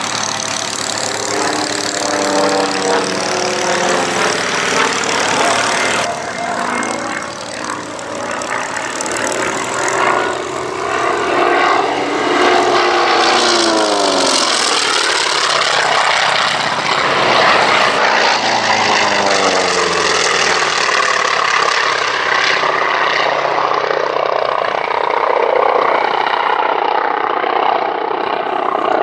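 Propeller-driven aircraft flying past at an airshow, the engine note dropping in pitch as each one goes by.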